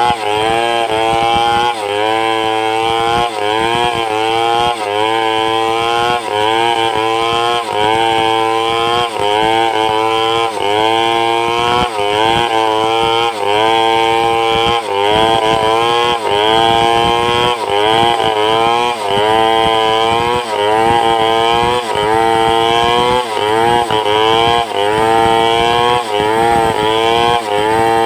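Two-stroke chainsaw ripping boards lengthwise from a log, running hard under load. Its engine pitch rises and falls back about once a second as the cut bites and eases.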